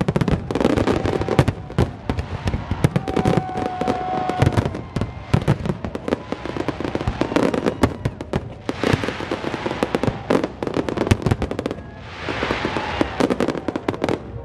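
Aerial fireworks shells bursting in rapid, overlapping bangs throughout, with stretches of dense crackling about nine and twelve seconds in.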